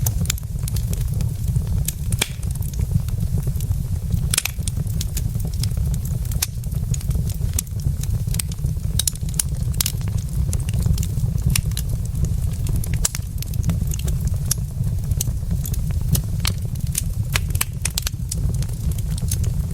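Wood fire burning in a fireplace, logs crackling with many sharp, irregular pops over a steady low rumble.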